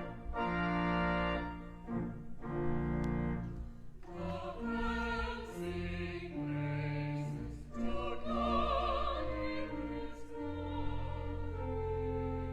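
Slow classical music: a trained voice singing held notes with vibrato over sustained deep accompanying notes.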